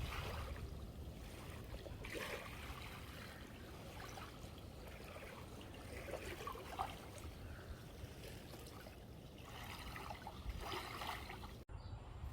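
Water splashing and trickling softly and irregularly, over a steady low rumble of wind on the microphone.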